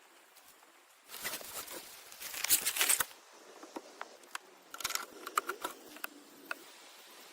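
Rustling and scraping handling noises for about two seconds, loudest near the end of that stretch, followed by a scatter of light clicks and knocks.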